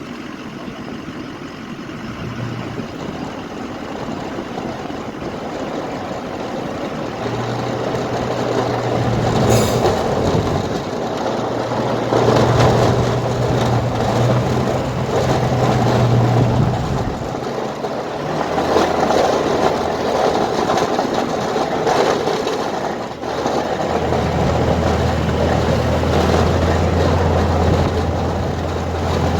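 Snow plow truck's engine running, its pitch shifting up and down as it drives, over a rough clattering rumble that grows louder over the first several seconds.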